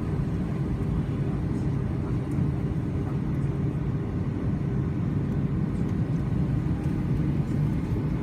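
Cabin noise inside a Boeing 757-200 with its jet engines running: a steady, even rumble with a low hum, heard from a seat near the wing.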